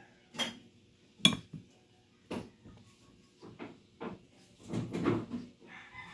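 Metal carburetor parts and tools being handled: a series of separate clinks and knocks, the sharpest about a second in and a quicker cluster near the end.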